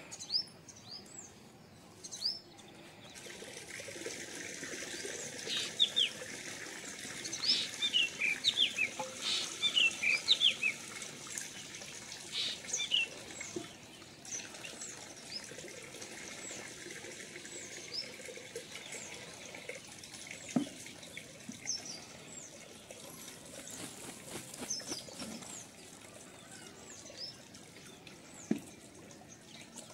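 Small birds chirping in quick, short falling notes, busiest in the first third and then only now and then, over a steady hiss that starts about three seconds in.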